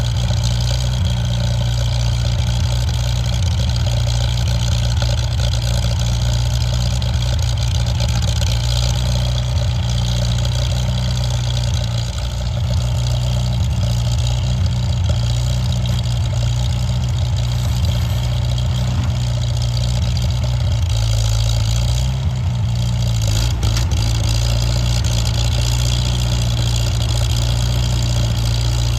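Tractor engine running steadily at a constant speed, its note shifting slightly about two-thirds of the way through.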